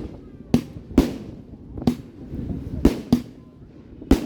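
Fireworks shells bursting overhead: six sharp bangs at uneven intervals, each followed by a brief rumbling echo.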